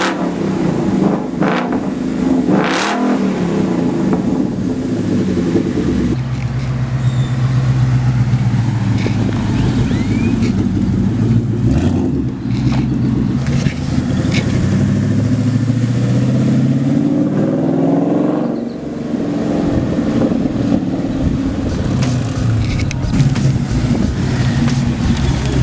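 Ford Mustang engine and exhaust running steadily, with the engine note sweeping up and then back down about 16 to 19 seconds in. The sound changes abruptly about 6 seconds in.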